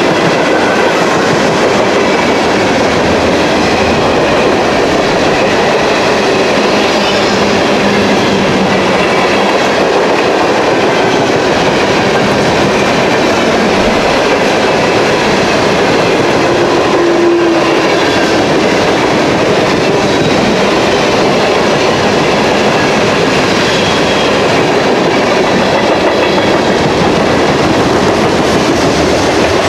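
Railroad cars rolling steadily past at close range, with the loud, continuous rumble and clatter of steel wheels on the rails.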